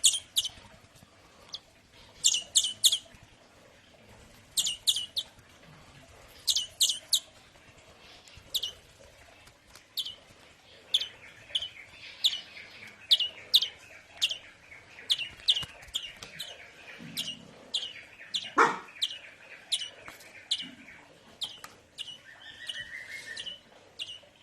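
Young European greenfinch chick begging to be fed: sharp, high cheeps, at first in quick runs of three or four, then single cheeps about once a second, with a softer buzzy churr beneath them in the second half. One short knock about three quarters of the way in.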